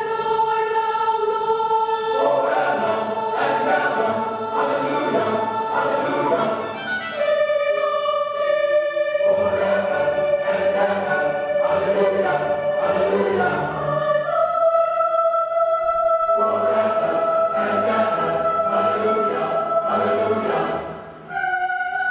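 A choir singing long held notes, with instruments accompanying.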